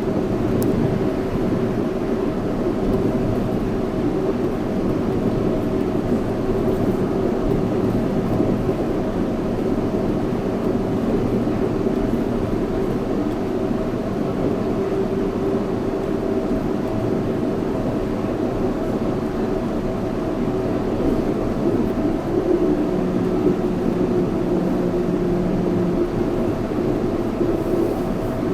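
Yurikamome 7300-series rubber-tyred automated guideway train running, heard from inside the car: a steady rumble of the tyres on the guideway with a steady motor hum. A lower hum comes in briefly near the end.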